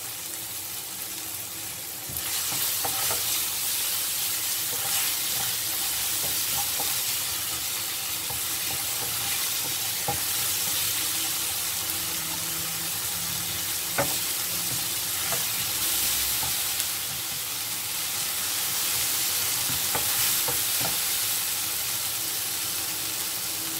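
Chopped onion, tomato and curry leaves sizzling as they fry in oil in a non-stick pan, stirred with a wooden spatula that now and then clicks against the pan. The sizzle grows louder about two seconds in.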